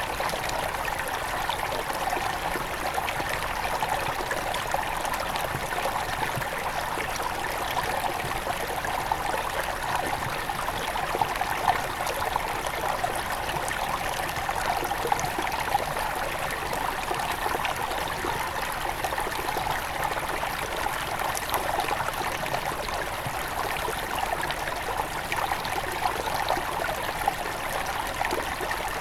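Small forest river near its source, flowing and trickling steadily over stones, with a constant babble of water.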